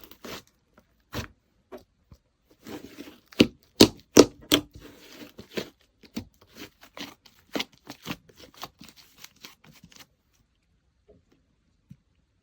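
Slime being squished, pressed and stretched by hand, giving irregular sharp pops and clicks, loudest about three to five seconds in. The sounds stop about ten seconds in.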